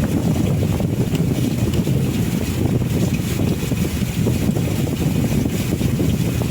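Steady low rumble of a riverboat under way, with wind buffeting the microphone.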